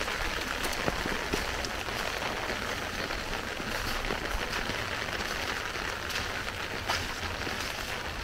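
Heavy rain falling steadily, an even hiss dotted with many sharp drop splashes.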